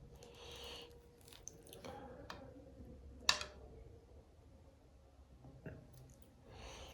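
Soft, wet chewing sounds from close-up eating, with scattered small mouth clicks and one sharper click about three seconds in.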